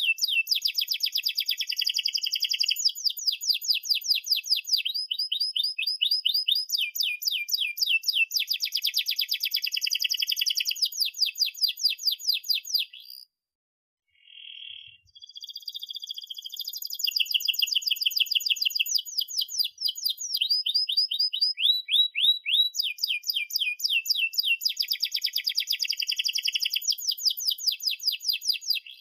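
Domestic canary singing a long, continuous song of rapid repeated chirps and rolling trills. It breaks off briefly about halfway through, then resumes.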